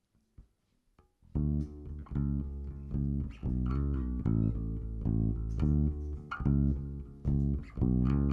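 A song's intro starts suddenly about a second in: a bass guitar plays a line of plucked, sustained notes that change about once a second.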